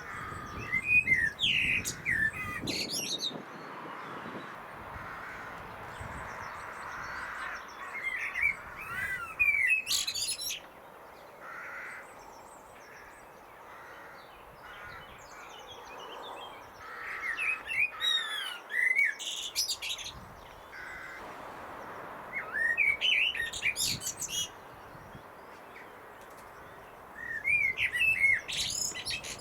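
A blackbird singing: five separate phrases a few seconds apart, each starting with lower warbled notes and ending in high squeaky twittering.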